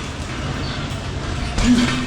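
Motorbike engine running while riding, with wind and road noise, and a short higher-pitched tone about a second and a half in.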